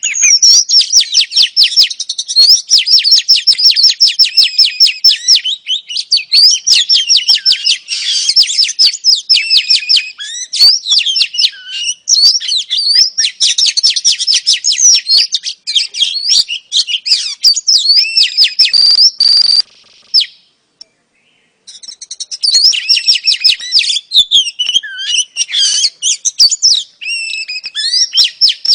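Oriental magpie-robin (kacer) calling in a rapid, unbroken run of chirps and trills: the female's call used to provoke male magpie-robins into full song. It breaks off for about a second and a half around twenty seconds in, then resumes.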